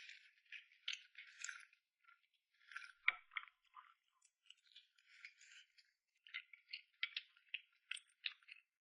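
Faint close-miked eating sounds: irregular runs of small clicks, crackles and clinks from chewing and utensils, with a sharper tick about three seconds in.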